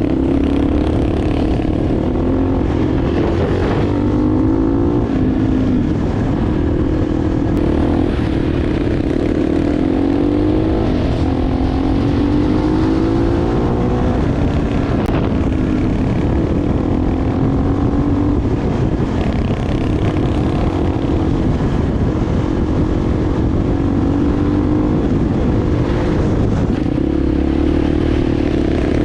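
Enduro motorcycle engine under way, its pitch repeatedly climbing and dropping back as it revs through the gears, over a steady low rumble.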